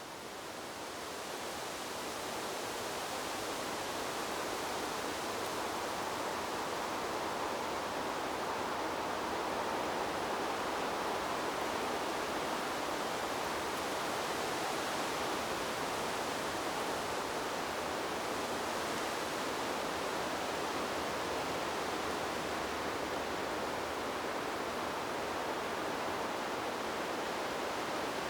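Steady rushing noise of wind blowing through trees, swelling over the first few seconds and then holding even, with no separate gusts or other sounds.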